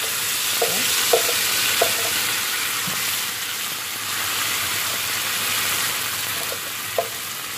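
Wet blended spice paste sizzling steadily in hot oil in a frying pan as it is stirred with a spatula, with a few brief clicks about a second in and again near the end.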